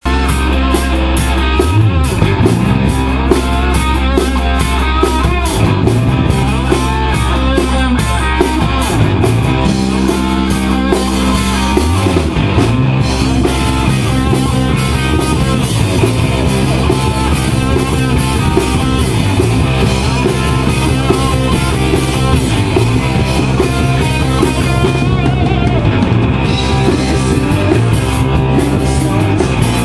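Rock music with a drum kit and guitar playing a fast, steady beat.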